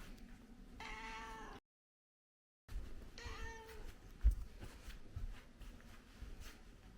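A domestic cat meowing twice, two short calls about two seconds apart, followed by a brief low thump.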